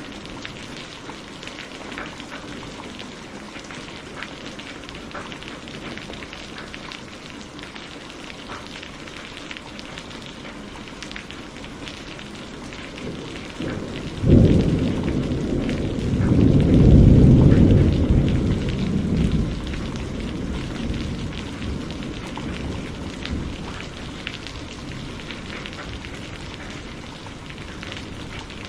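Steady rain with a thunderclap about halfway through that cracks sharply, swells into a deep rumble and rolls away over several seconds.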